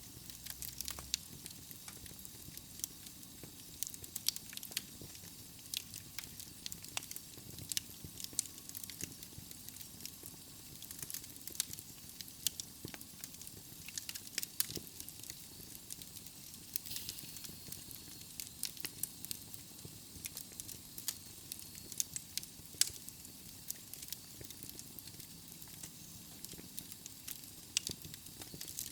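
Wood fire in a fireplace burning steadily, with a soft hiss and irregular sharp crackles and pops from the burning logs.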